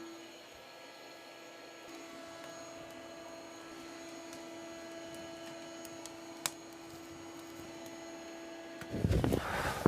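Steady low hum from a wood stove burning hot in a tent, with a few faint sharp crackles; near the end a louder burst of rustling.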